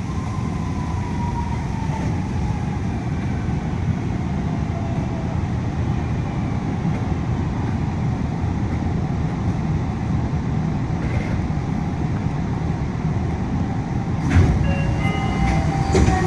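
Yui Rail monorail car interior: a steady running rumble with a faint whine that falls slowly in pitch over the first few seconds, as the train runs into the terminal. About fourteen seconds in there is a short, louder noise.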